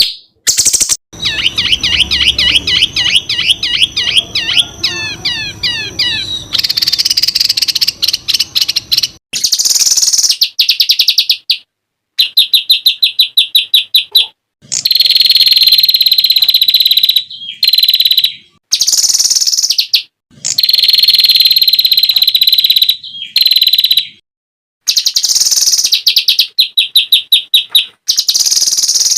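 Songbird tutor track of rapid-fire 'tembakan' song: loud, very fast repeated chirping notes in bursts of a second or two, cut off abruptly by short silences. For the first few seconds a different recording plays fast warbling trills over background noise.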